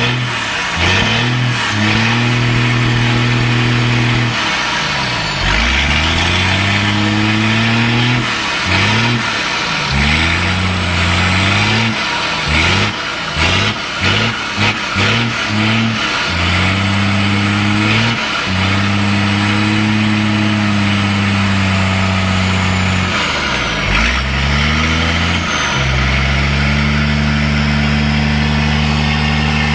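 Straight-piped Cummins inline-six diesel revved over and over: the pitch climbs and holds for a few seconds, then falls back, with a run of quick short throttle blips in the middle and a steady held rev near the end.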